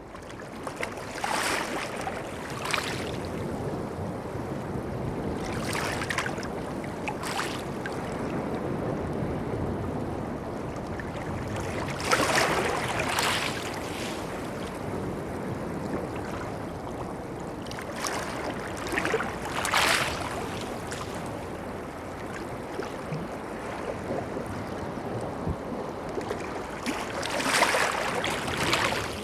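Sea water washing against the shore: a steady rush of water with short splashes every few seconds, several of them coming in pairs.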